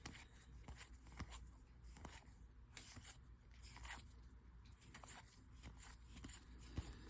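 Near silence with faint, scattered clicks and soft rustles of trading cards being handled and flipped through.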